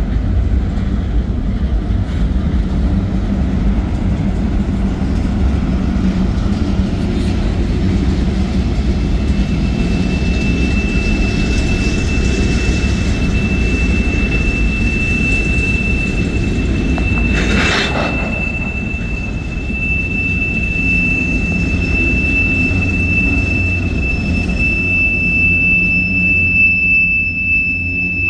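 Freight cars of a CSX manifest train, covered hoppers and tank cars, rolling past with a steady rumble of steel wheels on rail. About a third of the way in a steady high-pitched wheel squeal starts and holds on, and a little past halfway there is a single sharp clank.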